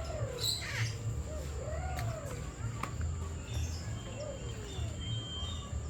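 Birds calling: a few drawn-out, arching calls about a second long, with a short high chirp about half a second in, over a low rumble.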